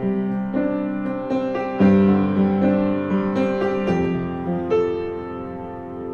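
Intro music: piano playing slow sustained chords and notes.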